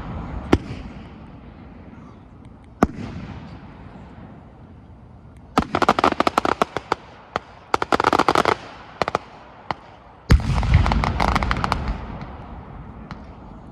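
A 5-inch multi-break aerial firework shell bursting in stages. There are sharp single bangs, then two stretches of rapid crackling pops, then a heavy boom about ten seconds in with a long rolling echo.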